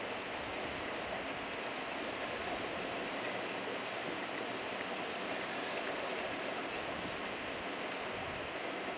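Hail falling steadily, an even dense patter with no distinct single hits standing out.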